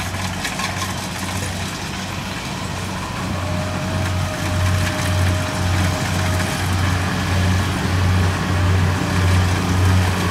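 Diesel engine of a Kubota DC70 rice combine harvester running steadily, its low hum swelling into a regular throb, a little over once a second, that grows louder through the second half.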